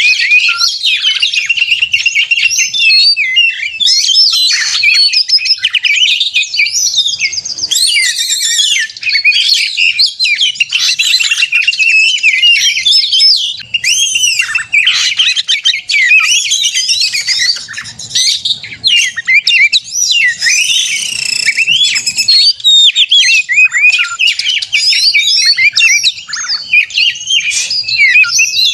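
Oriental magpie-robin singing its excited, agitated 'konslet' song: a loud, nonstop, fast run of varied whistles, glides and harsh notes, the kind of song played to provoke other magpie-robins into singing.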